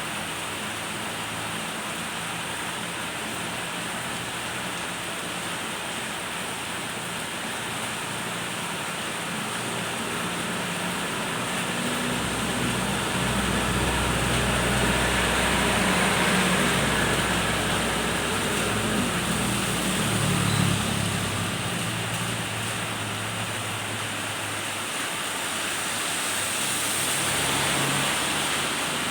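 Steady rain pouring down in an even hiss. A deeper low rumble swells in about twelve seconds in and fades out some ten seconds later.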